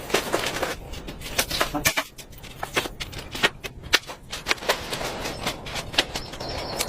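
A quick, irregular run of sharp knocks and clicks, several a second, some louder than others.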